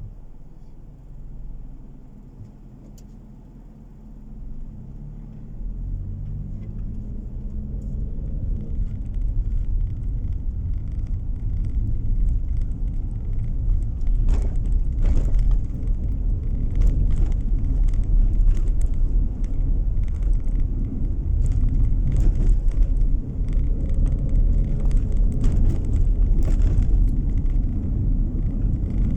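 A car pulling away and speeding up, its engine note rising over several seconds, then a steady low road rumble as it cruises, with scattered short knocks from the road surface.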